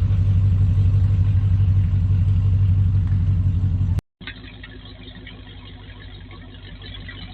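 Drag car engine running at idle, loud, with a fast, uneven pulsing rumble. About four seconds in, the sound cuts off and gives way to a quieter, duller engine sound.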